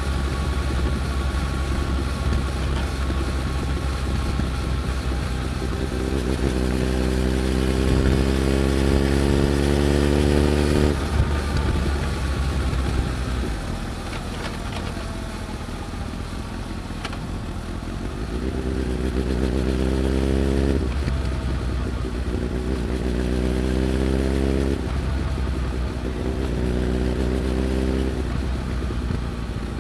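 Suzuki Hayabusa GSX1300R's inline-four engine, heard through a Tech Surf carbon muffler while riding, pulling up through the revs in rising runs. There is one long pull, a quieter stretch in the middle, then three shorter pulls near the end, with loud drive-chain noise alongside.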